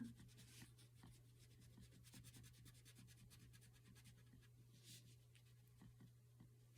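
Crayon rubbed back and forth on paper with hard pressure while colouring in: faint, quick, repeated scratchy strokes.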